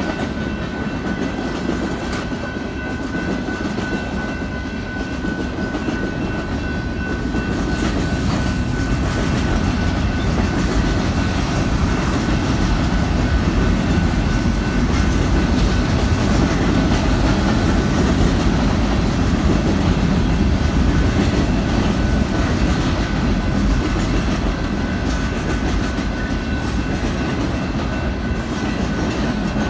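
Union Pacific mixed freight train's cars rolling past a grade crossing: a steady rumble with the clatter of wheels over rail joints, growing somewhat louder about eight seconds in. A thin steady high tone runs above it.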